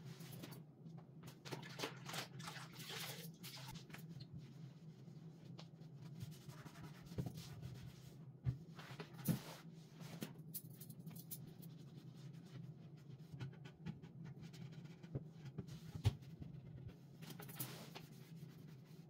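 Light handling noises: rubbing, rustling and scattered small knocks of household items being moved and wiped, with a few sharper knocks, over a steady low hum.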